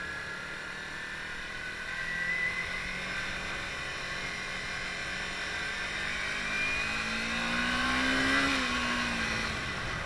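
Onboard sound of a Kawasaki Ninja 300's parallel-twin engine running at road speed over a steady rush of wind and road noise. The engine note climbs for a couple of seconds as the bike accelerates, then drops about eight and a half seconds in as the throttle eases or it shifts.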